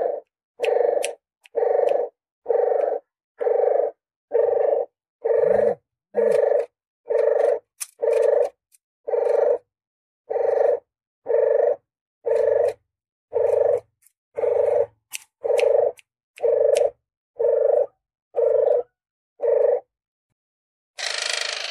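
Puter geni dove (a collared dove) cooing repeatedly as a hunting lure call: a steady run of short, low coos, about one a second. Near the end the coos stop and a harsher, noisier sound begins.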